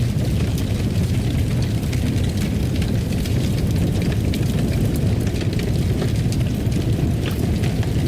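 Wood fire in a fireplace crackling, with a steady low rumble and frequent sharp pops and snaps.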